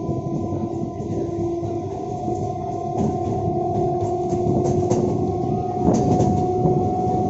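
Suburban EMU local train running: a steady rumble with a two-note electric motor whine that slowly rises in pitch as the train gathers speed, and a few sharp clacks of wheels over rail joints.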